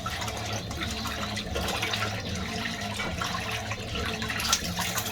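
Fisher & Paykel MW511 top-loading washing machine in its wash cycle, churning the load through water: a continuous sloshing of water over a steady low motor hum.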